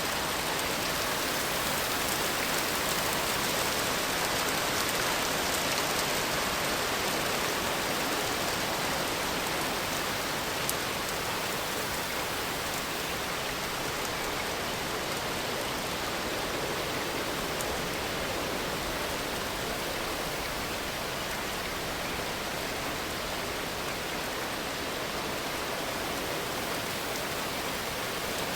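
Steady rain falling: an even, unbroken hiss of rain on surfaces, with one faint tick about ten seconds in.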